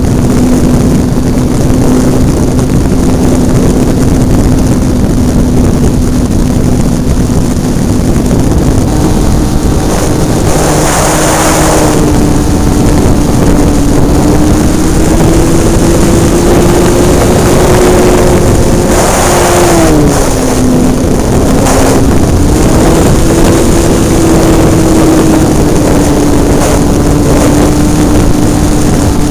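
Hobbistar 60 RC model airplane's engine running loud and steady, heard from a camera mounted on the plane. The pitch steps up a little about eight seconds in and dips briefly about two-thirds of the way through before coming back up. Two short rushes of wind noise break over it along the way.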